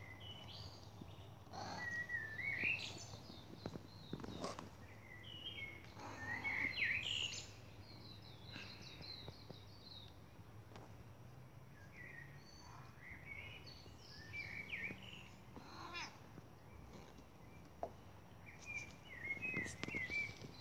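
Small birds chirping and warbling in short bursts of quick rising notes, on and off, over a steady low hum.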